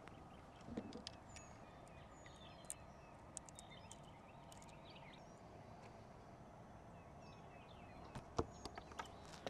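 Very faint quiet with scattered short, high bird chirps, and a few sharp clicks about eight seconds in.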